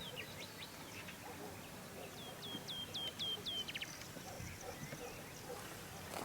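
Birds calling, with scattered high chirps throughout and a run of about five quick downward-sliding notes midway through.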